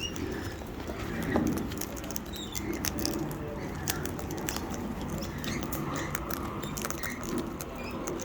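Wild sulphur-crested cockatoos eating seed: a steady scatter of small crunching clicks from their beaks, with a few soft high chirps, over steady rain.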